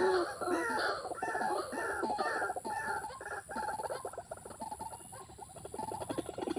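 Bird calls: a fast run of short, repeated calls, about three or four a second, that thin out after about three and a half seconds into quicker, softer chatter.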